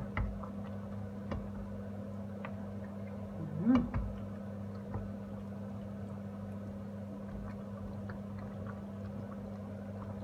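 A steady low hum with small scattered pops and ticks, from a pot of chicken and chickpea stew simmering on the stove. A short rising hum-like tone comes about three and a half seconds in and is the loudest moment.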